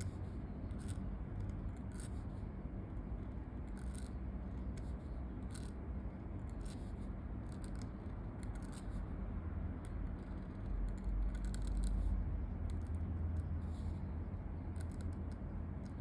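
Pen nib scratching across paper in short, irregular handwriting strokes, over a steady low background rumble.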